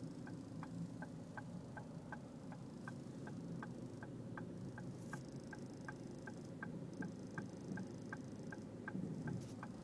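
Rattle from the driver's door of a Ford Focus TDCi: light, even clicking about three times a second over the low hum of the running diesel engine. The owner takes it for a loose plastic trim panel vibrating.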